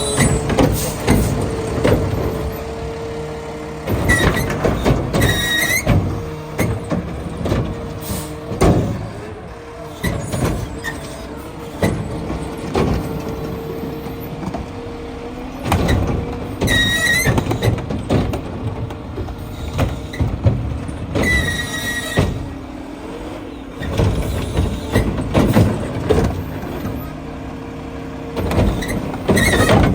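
Mack LR garbage truck with a McNeilus Meridian body running, with a steady whine under it, brief high squeals from the brakes several times, and scattered clanks and knocks.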